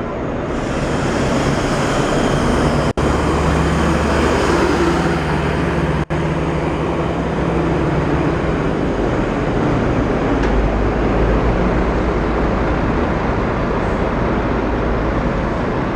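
Marcopolo Paradiso 1800 DD double-decker coach on a Scania chassis running, a loud steady mix of engine and road noise. The sound cuts out briefly twice, about three and six seconds in.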